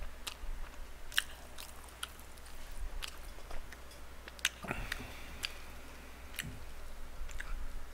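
Close-miked chewing of a mouthful of boneless fried chicken, with scattered short wet mouth clicks and a brief muffled sound just before halfway.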